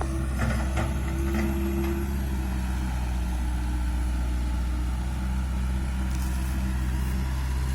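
Diesel engine of heavy earthmoving machinery running steadily with an even low drone, with a few faint clicks in the first second or so.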